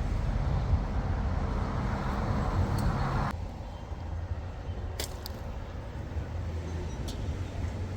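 Steady low engine hum under a rushing noise; the rushing cuts off abruptly about three seconds in, leaving the hum with a few faint clicks.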